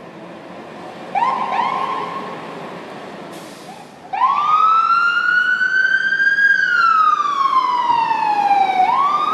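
Emergency vehicle siren: two short rising chirps about a second in, then a loud wail starting about four seconds in that rises slowly, falls, and begins rising again near the end. A brief hiss just before the wail starts.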